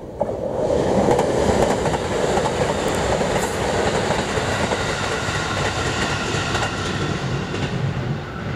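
Rapid Marine Liner electric train, JR Shikoku 5000 series coupled to JR West 223 series 5000 subseries cars, passing at speed without stopping. The rush of wheel and rail noise jumps up suddenly about a quarter second in and eases off slowly as the train draws away.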